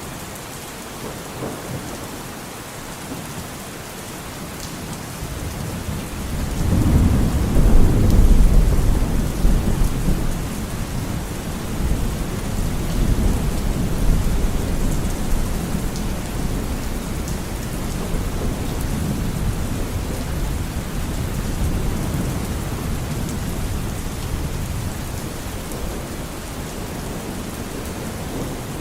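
Steady rain with a long roll of thunder: a deep rumble swells about six seconds in, peaks shortly after, then keeps rolling more softly under the rain.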